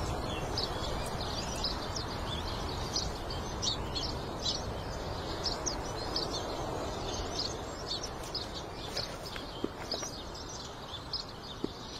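Birds chirping, with many short high calls scattered throughout, over a steady outdoor background hiss.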